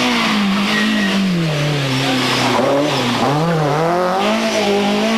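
BMW M3 E30 Group A rally car's four-cylinder engine running hard. Its revs fall over a couple of seconds, dip once more, then climb again as it accelerates.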